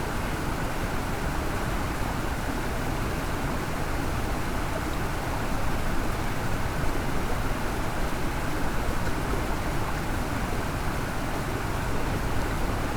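Mountain stream water rushing steadily over rocks, an even noise with no breaks.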